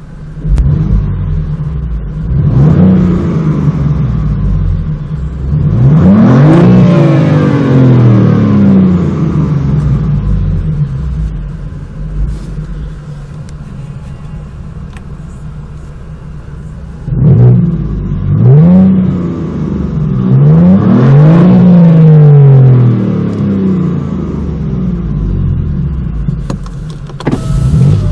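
BMW M4's twin-turbo straight-six running through an Akrapovic Evolution Line titanium exhaust, revving up and falling back several times. Between the rises it drops to a lower steady running sound.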